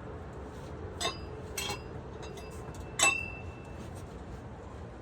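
Metal exhaust pipe clinking as it is knocked and worked into place: three sharp clinks, the third the loudest, with a short ringing after it.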